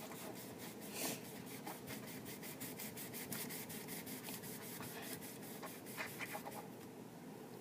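Faint rapid scratching, a quick run of light ticks, with a louder scrape about a second in and a few small knocks near the end.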